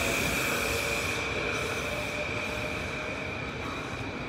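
Metro-North M8 electric commuter train running along the tracks, its wheels giving a steady high squeal over the rumble of the cars, fading gradually as it draws away.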